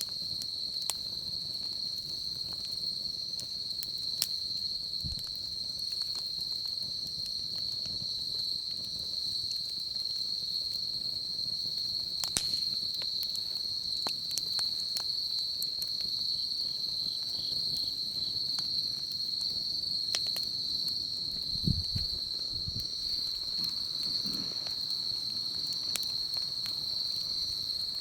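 Insects trilling in one steady high-pitched drone, with sparse sharp pops and crackles from a wood fire. A few low thuds come near the end.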